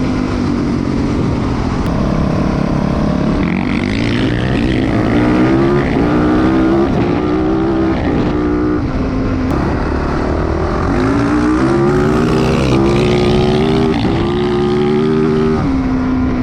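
Dirt bike engine accelerating hard through the gears: the pitch climbs, then drops back at each shift, over and over.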